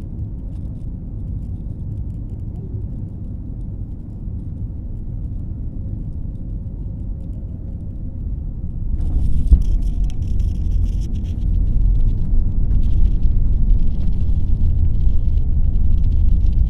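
Low, steady rumble of a landing aircraft, growing louder about nine seconds in as a hiss joins it.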